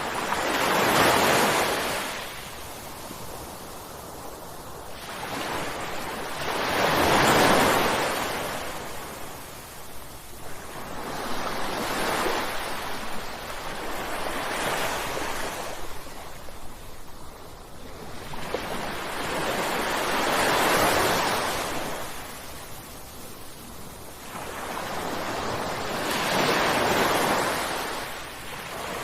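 Ocean waves breaking and washing on a shore, about five waves, each swelling up and falling away roughly every six seconds.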